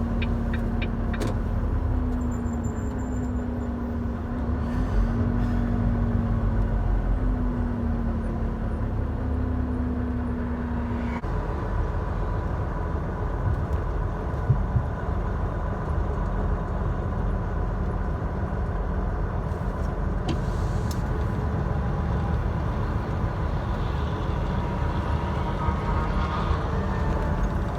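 Volvo VNL 780 semi truck running down the road: a steady low engine and road rumble. A steady droning hum sits over it for the first third or so, then stops.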